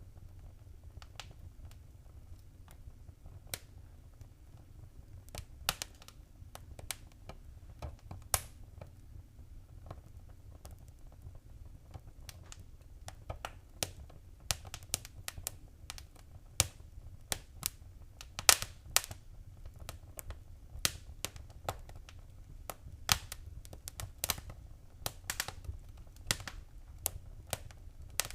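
Wood fire crackling in a fireplace: irregular sharp pops and snaps over a low steady rumble, sparse at first and busier from about halfway on.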